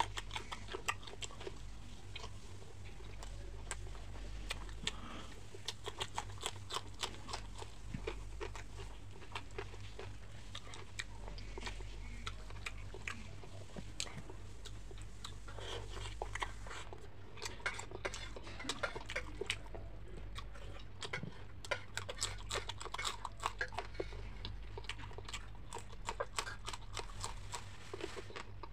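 Close-miked mouth sounds of a person eating fried fish by hand: wet chewing, smacking and many small sharp clicks as fingers pull the flesh apart, over a steady low hum.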